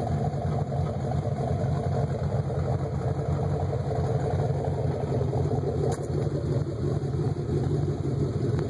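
Chevy 355 small-block V8 (a 350 bored .030 over, with a mild cam) idling steadily through a Cherry Bomb exhaust.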